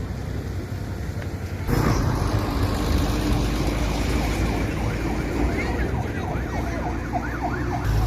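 Vehicle and road noise, with a siren in a fast rising-and-falling yelp over the second half.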